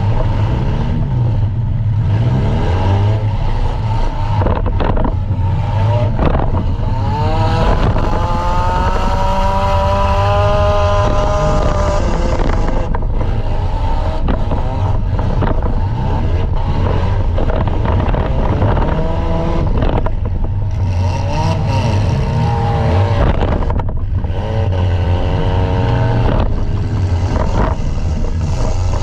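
Compact demolition derby car's engine running hard and revving up and down, with a few sharp bangs and crunches of metal from hits.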